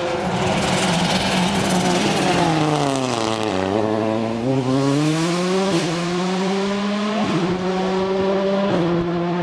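Rally car engine at speed: its pitch drops for about two seconds as it slows, rises again as it accelerates, then holds fairly steady.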